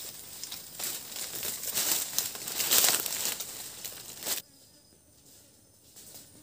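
Rustling, crinkling noise that builds to its loudest about three seconds in, then cuts off abruptly after about four seconds, leaving a much quieter background with a few faint clicks.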